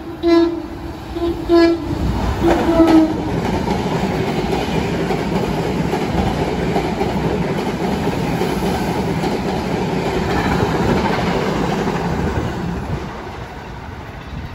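New Jersey Transit electric multiple-unit commuter train sounding its horn in three short blasts as it approaches, then passing at speed with a steady rush of wheel and car noise that fades near the end.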